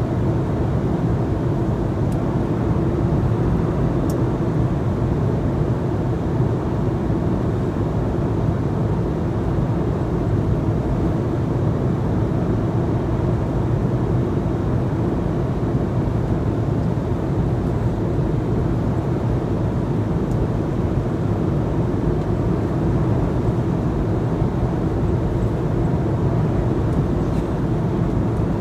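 Airliner cabin noise: the steady drone of the engines and airflow heard from inside the passenger cabin, deep and even, with a couple of faint ticks early on.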